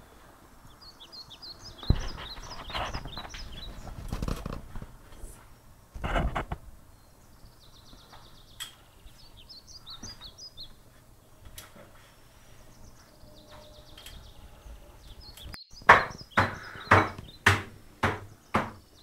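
A small bird chirping in three quick runs of short, high notes. A few dull thumps come early on, and near the end there is a run of sharp knocks, about two a second, which are the loudest sounds.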